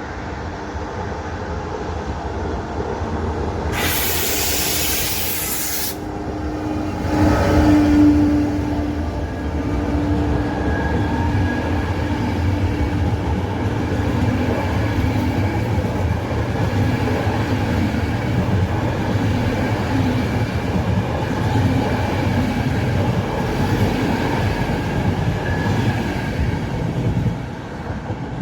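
Electric locomotive-hauled passenger train running past on the rails, a steady rumble with wheel clatter. A short hiss comes about four seconds in, and a held tone swells and fades around eight seconds.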